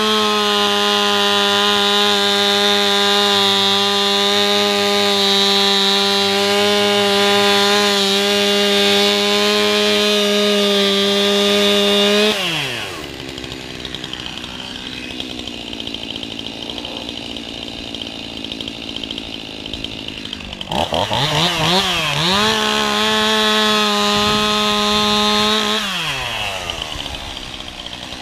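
Gasoline chainsaw engine held at high revs, steady, for about twelve seconds, then dropping to idle. It revs up sharply again about 21 seconds in, holds for a few seconds, and falls back to idle near the end.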